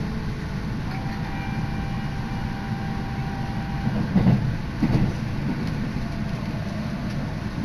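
Electric commuter train running on the Tokaido Line, heard from inside the carriage: a steady rumble of wheels on rail, with two louder thumps about four and five seconds in.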